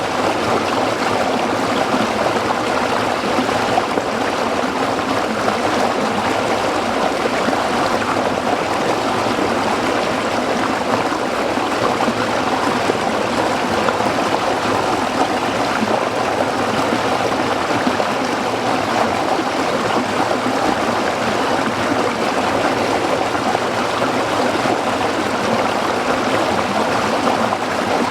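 A small stream flowing and babbling over rocks, a steady rush of water.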